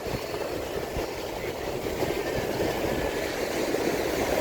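A train rumbling steadily, slowly growing louder as it approaches.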